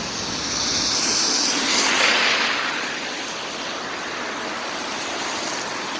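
Steady hiss of rain falling, with a louder rushing swell about one to two seconds in.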